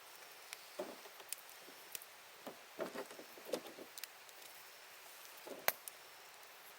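Campfire crackling: irregular small pops and snaps of burning wood over a soft hiss, with one sharper snap late on.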